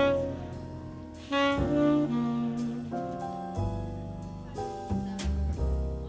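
Slow jazz ballad: a tenor saxophone plays the melody in long held notes over a low bass accompaniment.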